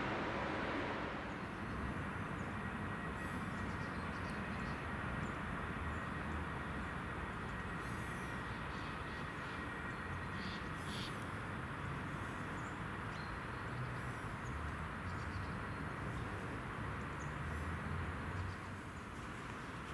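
Steady outdoor background noise with a low rumble, and a few faint high chirps about eight and eleven seconds in.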